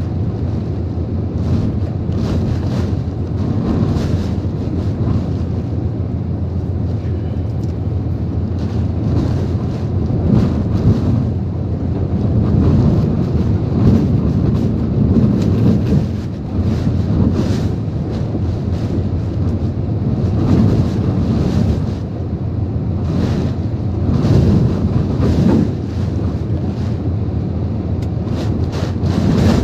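Typhoon wind blowing hard in gusts, rumbling on the microphone, with many short crackles over it.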